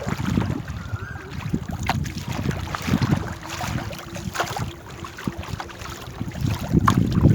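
Paddles dipping and splashing beside a small wooden rowboat, with scattered knocks against the hull and gusts of wind buffeting the microphone.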